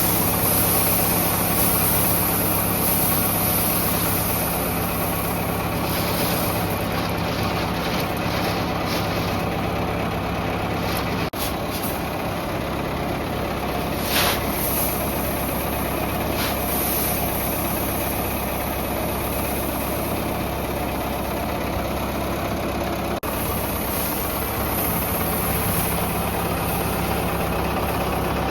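Ford 5000 tractor engine running steadily, with one brief sharp sound about halfway through.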